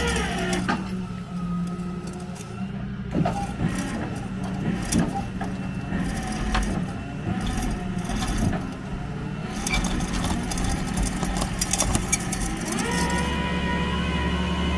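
A vehicle engine running steadily, with repeated metallic clanks and knocks. Music comes in near the end.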